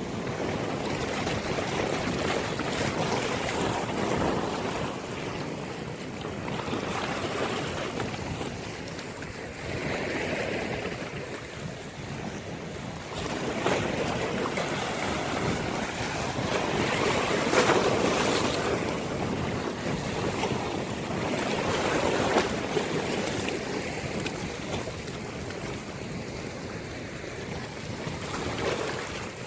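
Sea waves breaking and washing ashore, swelling and easing in surges, with the loudest surge about two-thirds of the way through. Wind rumbles on the microphone.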